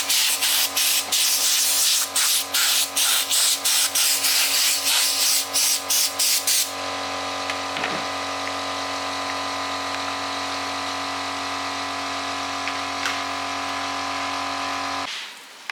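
Electric power tool motor running, at first working against something with a loud rough hiss that keeps dropping out briefly as the contact breaks, then running free with a steady hum until it is switched off near the end.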